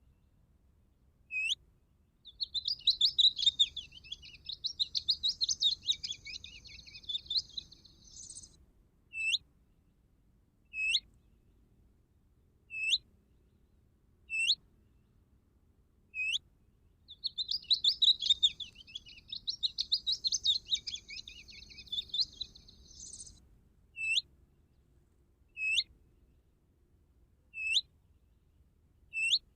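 Small songbird calls played on a loop from an electronic bird caller used as a lure: a short, sharp high call note about every two seconds, twice broken by the same long, rapid twittering song phrase lasting about six seconds.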